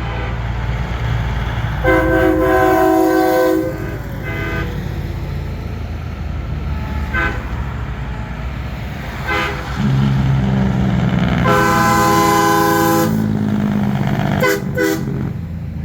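Semi-truck air horns sounding: two long chord-like blasts lasting a second or two each and several short toots in between, over the steady low rumble of truck engines running.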